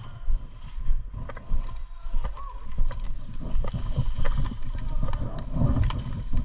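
Low steady rumble with scattered knocks and rustles: movement and handling noise on a player-worn camera's microphone as the player moves about.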